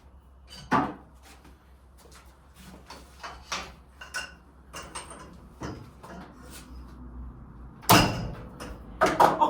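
Scattered clanks and knocks of hand tools against metal car parts. There is a sharp knock about a second in and a loud bang near the end, over a low steady hum.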